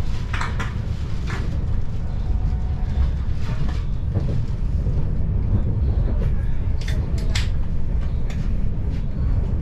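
Electric commuter train running along the track, heard from inside the passenger car: a steady low rumble of wheels on rails, with a few short sharp sounds about half a second in and again about seven seconds in.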